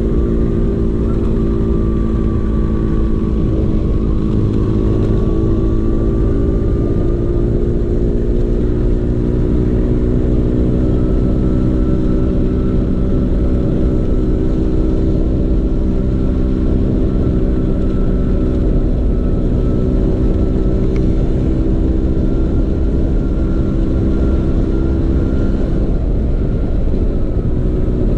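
Vespa PX 150's single-cylinder two-stroke engine running through a DRC Victory racing exhaust, steady and loud, its pitch drifting slowly up and down with a low rumble underneath.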